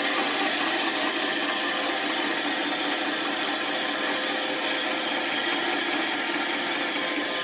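Wood being worked on a running wood lathe: a steady, unbroken scraping.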